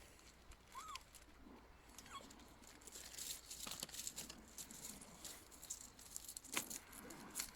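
Faint crackling and small dry clicks as black pepper is added to the pot, thickening about three seconds in. Two short high chirps sound in the first two seconds.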